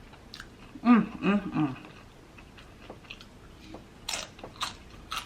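A person chewing food close to the microphone: soft wet mouth smacks and clicks, with a few sharper ones near the end. A brief murmur of the voice comes about a second in.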